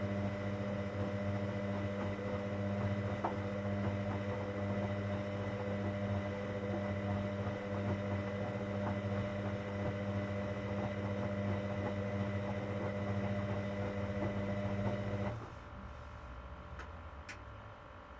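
Hoover Dynamic Next washing machine's drain pump humming steadily, then cutting off abruptly near the end, followed by two faint clicks.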